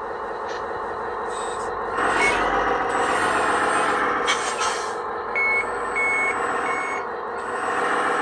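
Simulated truck engine sound from an RC loader's CS-RC16 sound module, played through its small speaker. It runs steadily, picks up about two seconds in, then gives three short reversing beeps. The speaker sounds noisy, which the owner takes as a sign that it will break soon.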